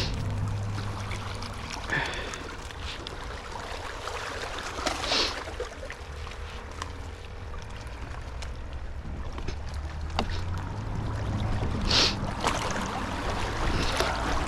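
Wind and water noise at the seashore over a steady low rumble, with a few short hissy gusts or splashes.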